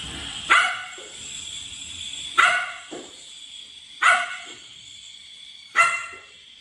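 A dog barking four times, single barks spaced evenly about a second and a half apart.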